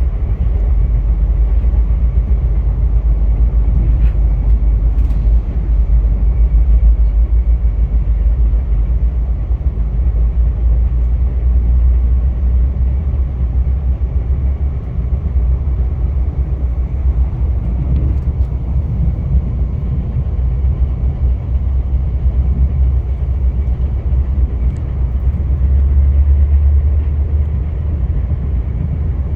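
Via Rail passenger train running along the tracks with a steady low rumble, broken by a few faint clicks.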